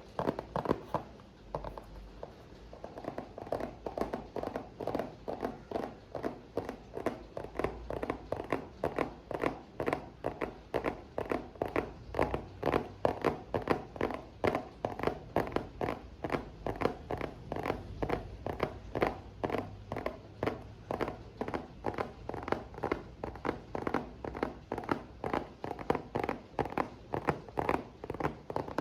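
ASMR tapping: quick, even taps on an object, several a second, easing off briefly about two seconds in before picking up again.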